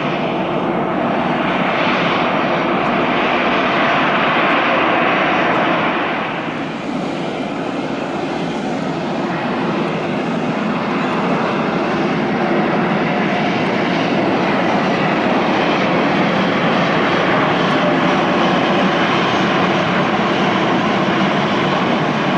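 Airliner engine noise at an airport, loud and steady throughout. There is a brief dip about six seconds in; after it comes the noise of a Hong Kong Express jet landing.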